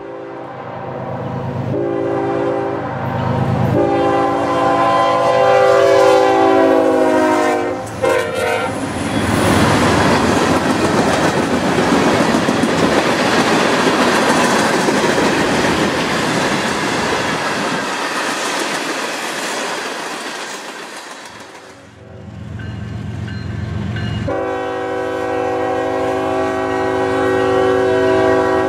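Norfolk Southern freight train led by a GE ES44DC sounding its horn in several blasts as it approaches; the horn's pitch drops as it passes about eight seconds in. Hopper cars then roll by with steady wheel clatter for over ten seconds, fading. After a break, the horn sounds again in one long blast as the locomotive nears a grade crossing.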